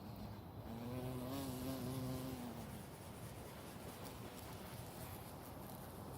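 A bee's wings buzzing for about two seconds, starting about a second in. The pitch lifts a little, then drops away as it fades.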